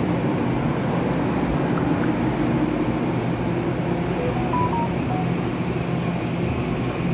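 Steady hum of a Puyuma express train (TEMU2000 tilting set) standing at the platform, its on-board equipment running.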